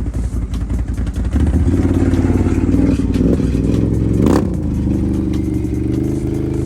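1000R's V-twin engine running through a new HMF aftermarket exhaust with a fresh tune: it idles, is revved up about a second in and held, and gives a quick blip with a sharp crack from the exhaust near the middle before settling into steady running.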